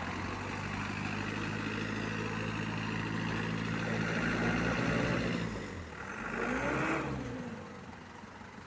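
Loaded sugarcane truck's diesel engine running steadily under load, then revving up and falling back twice as the truck strains to get out of the field.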